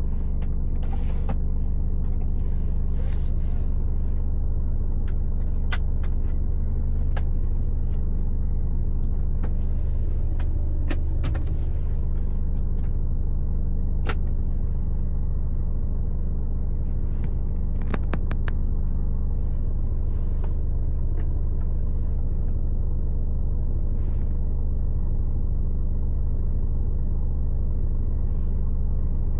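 Mercedes-Benz Actros L truck driving, heard from inside the cab: the diesel engine and road noise make a steady low drone, with scattered light clicks and rattles.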